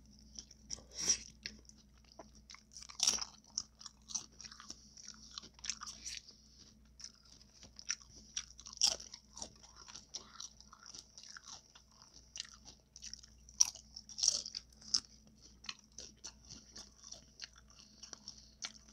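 Close-miked chewing and crunching of a taco, many irregular crunches with a few louder bites scattered through.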